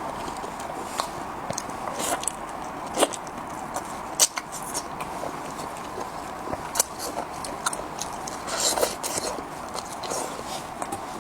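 Close-miked eating: irregular biting and chewing, with many short, sharp, wet clicks and crackles.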